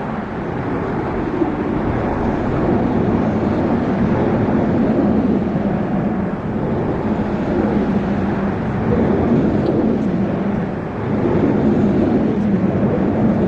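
Waterfall rushing: a steady, loud rush of falling water.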